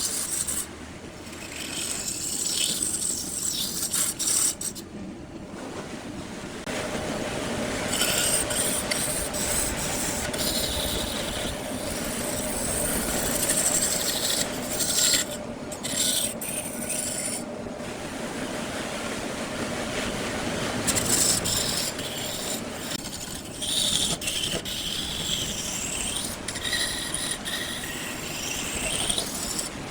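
A turning tool scraping a wood block spinning on a lathe: a continuous rasping, cut by a few brief breaks, with high-pitched squeals near the end.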